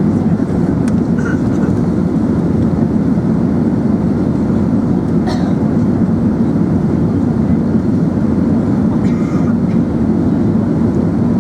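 Steady roar inside the cabin of an Emirates Airbus A380 in flight: engine and airflow noise, even and unbroken, with a few faint ticks.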